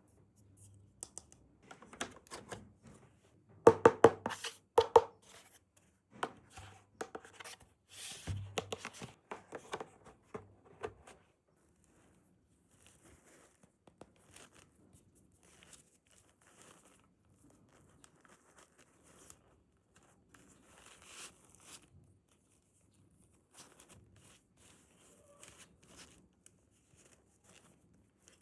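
Toy packaging being torn and crinkled by hand: a flurry of sharp crackles and clicks, loudest a few seconds in, that thins out after about eleven seconds to scattered faint clicks and taps.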